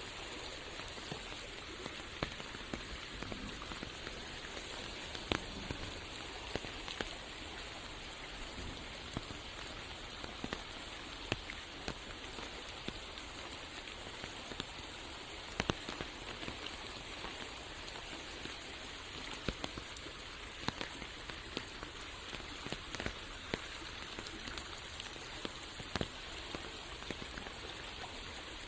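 Steady rain falling on forest foliage, an even hiss with scattered sharp ticks at irregular moments.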